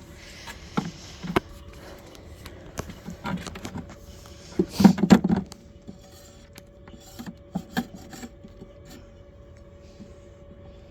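Wooden beehive frames being handled and worked out of the hive box: scattered knocks, clicks and wood scraping on wood, loudest around five seconds in.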